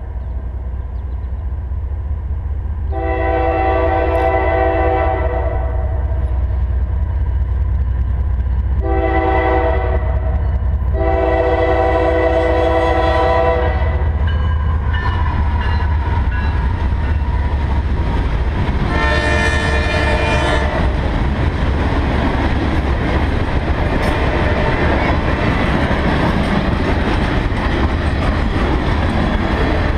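An approaching CSX freight train's multi-chime locomotive horn sounds for the crossing in several blasts, mostly long with a short one among them. The diesel locomotives then pass close with a rising rumble, and another horn blast sounds as they go by. The freight cars follow with a steady heavy clatter of wheels on the rails.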